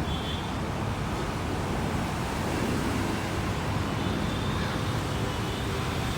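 Airbus A330-300 airliner on final approach, its twin jet engines giving a steady rumble with a faint high whine, which swells slightly midway, mixed with wind on the microphone.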